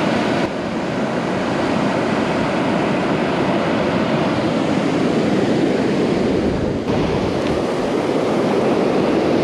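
Ocean surf breaking and washing on a beach, a steady rushing sound.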